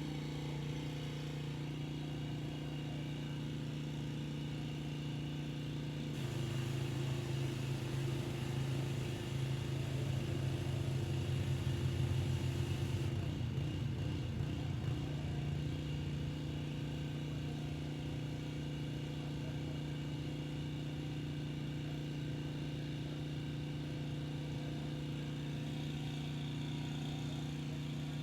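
Petrol pressure washer engine running steadily. From about six seconds in to about thirteen seconds its note shifts and grows a little louder, with a hiss on top, then it settles back to the steady run.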